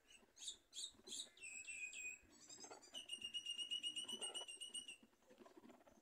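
A bird calling high and thin: a few short chirps, then a couple of downward-sliding notes, then a fast trill of rapidly repeated high notes lasting about two and a half seconds.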